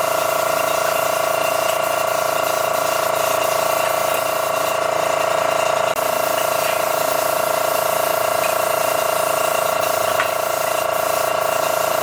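A power tool running steadily: a constant motor whine over a hiss, with a momentary break about six seconds in.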